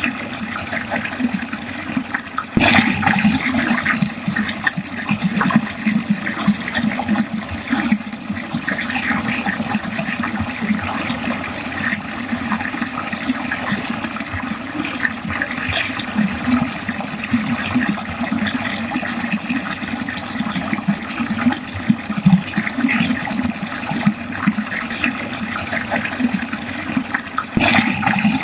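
Water flowing steadily down a drain, a continuous rushing and gurgling flow with no pauses.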